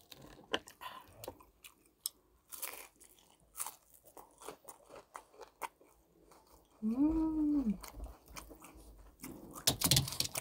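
Crisp crunching bites and chewing of Korean fried vegetable fritter (yachae twigim) in tteokbokki sauce, close to the microphone, with a short hummed "mmm" about seven seconds in and a louder crunchy bite near the end.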